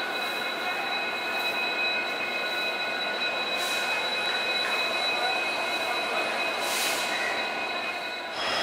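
Passenger train rolling slowly past a station platform, heard from inside a coach: a steady running noise with thin, steady high-pitched whines over it.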